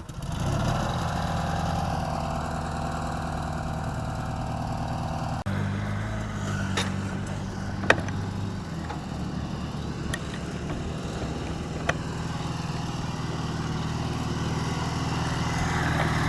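Small garden tractor engine running at idle, its note shifting abruptly about five seconds in. A few sharp clicks sound over it.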